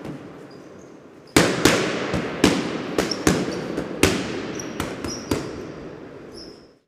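A rapid, irregular series of about ten sharp cracks or bangs over some four seconds, each dying away quickly, with faint high-pitched tones between them. The sound cuts off suddenly near the end.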